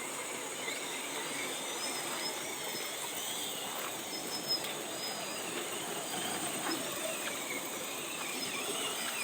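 Outdoor ambience: a steady hiss with a high, even hum and faint bird chirps throughout.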